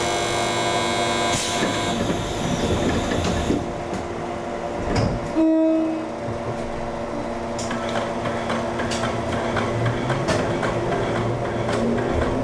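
Ex-Tokyu 7000-series electric train heard from the cab, pulling away: a short, loud horn blast about five seconds in, rattling and clicks, and near the end the traction motors' whine rising in pitch as the train gathers speed.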